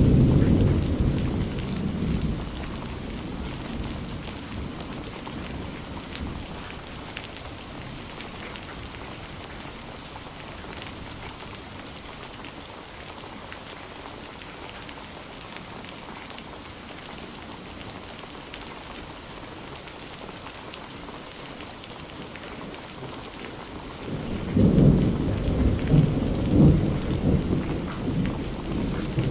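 Steady rain falling in a thunderstorm, with a rumble of thunder dying away in the first couple of seconds. Near the end a second, louder peal of thunder rolls in, swelling in several peaks.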